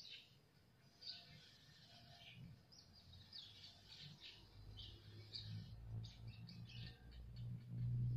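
Faint bird chirps in the background. A low hum comes in and grows louder in the second half.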